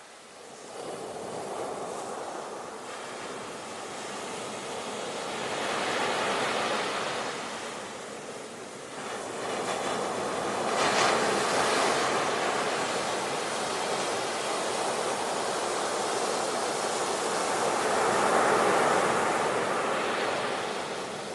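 Ocean surf: waves breaking and washing in, the rushing noise swelling and ebbing several times, with a sharper break about halfway through.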